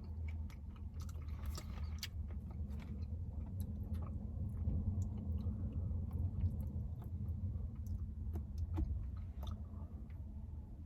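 Close-up chewing of sticky glazed chicken wings: irregular wet clicks and mouth smacks, with a steady low hum underneath.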